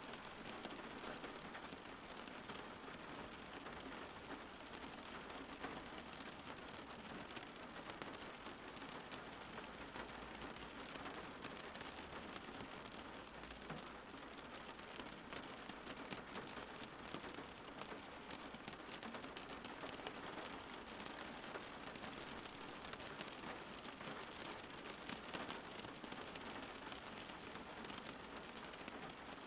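Steady rain falling on a surface, an even hiss with fine pattering drops throughout.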